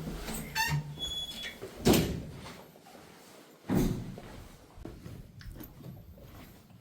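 A door banging shut with two loud impacts, preceded by some clicks and a brief electronic beep.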